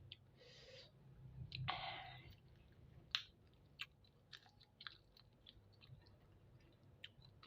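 Close-miked chewing and mouth clicks of someone eating spicy chicken feet, with scattered sharp wet clicks. There is a louder, longer noisy mouth sound about two seconds in, then a sharp click a second later.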